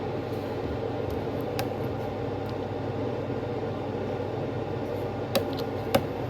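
Steady low mechanical hum, like a fan or air-conditioning unit running, with a few light clicks about a second and a half in and again near the end.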